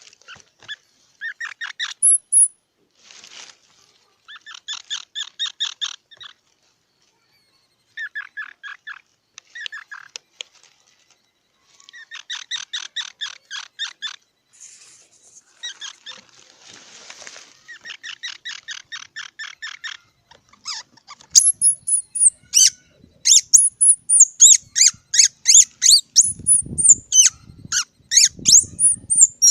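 Squirrel chattering in repeated bouts of quick calls, about ten a second, with short pauses between bouts. About two-thirds of the way through it switches to louder, higher squeaks in quick succession.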